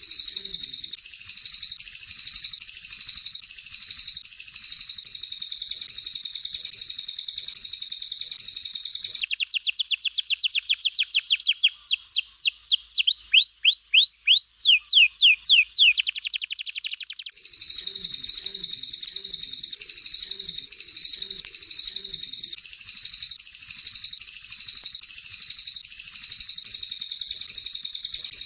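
Songbird song from a canary and a cililin alternating: a dense, continuous high-pitched twittering, broken about nine seconds in by roughly eight seconds of rapid down-slurred whistled notes that quicken and then stop, after which the twittering resumes.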